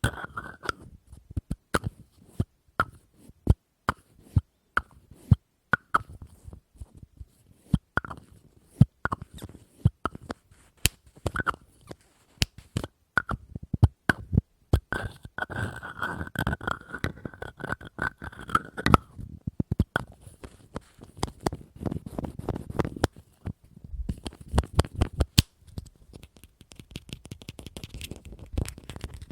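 ASMR tapping on a hard object: single sharp taps roughly a second apart, broken by stretches of rapid tapping in which the object rings with a faint note.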